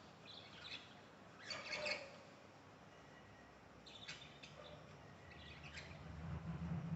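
Budgerigars chirping in four short scattered bursts, the loudest about two seconds in, over a low hum that grows louder near the end.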